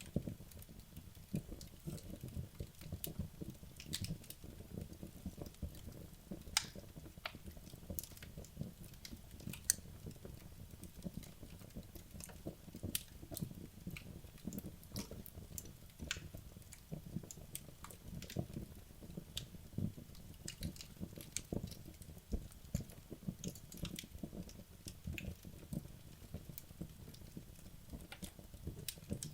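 Wood logs burning in a fireplace: a low, steady flutter of flames with many irregular sharp crackles and pops from the burning wood.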